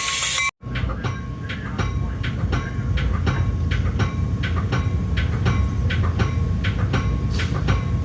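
Ride in a moving Metra commuter rail car: a steady low rumble with the wheels clicking at an even pace over rail joints, after a brief dropout about half a second in.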